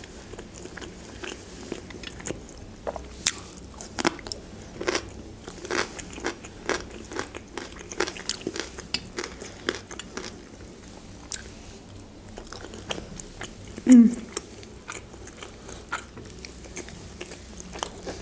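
Close-miked chewing of grilled chicken: irregular wet smacks and small crunching clicks of the mouth, with one short sound of the eater's voice about fourteen seconds in.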